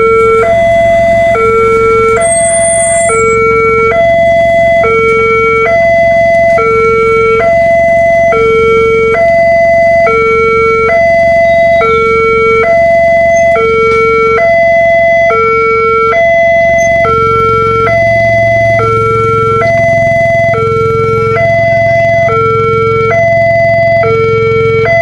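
Railway level-crossing warning signal sounding: an electronic alarm alternating between a low and a high tone, each about half a second, repeating evenly. A low rumble builds under it about two-thirds of the way through.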